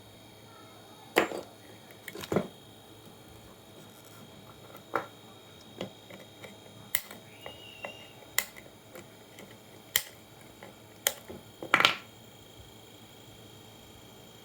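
Irregular sharp clicks and knocks of tools and small parts being handled on a workbench, about ten in all, the loudest a couple near the start and a close double knock near the end.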